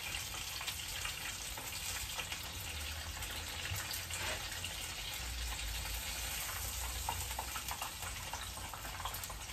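Karaage chicken pieces frying in hot oil in a small pan: a steady sizzle with constant small crackles.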